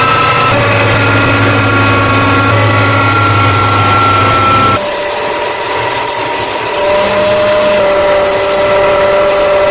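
Electric power tool running steadily under load, its motor giving several held tones; the sound switches abruptly to a different pitch and character about five seconds in.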